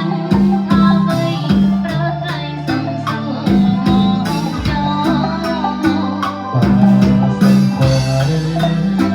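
Band playing a Khmer song, with electric bass, a drum kit keeping a steady beat, guitar and melody instruments, and singing at times.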